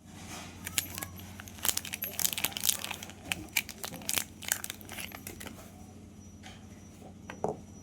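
Soap wrapper crinkling and tearing as it is opened by hand: a dense run of sharp crackles for about the first five seconds, then sparser rustles.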